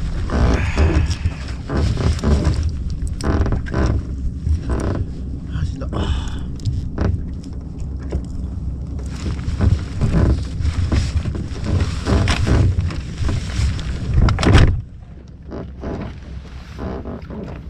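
Wind buffeting the microphone on a small boat at sea, a gusty rumble broken by scattered knocks; it falls away suddenly near the end.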